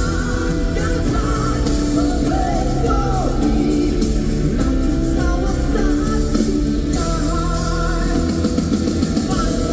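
Live band music with singing: a funk-rock song with guitar, drums and bass under a sung vocal line.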